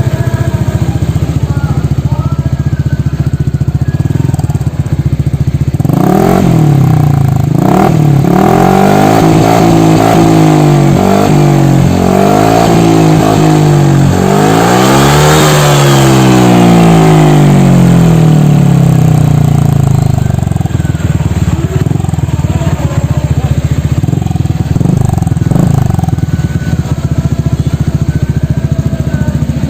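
Honda ADV 150 scooter's single-cylinder engine running through a Pro Speed aftermarket exhaust. It idles, then is revved repeatedly with rising and falling throttle blips from about 6 s in, the highest rev around the middle, and drops back to a steady idle for the last third.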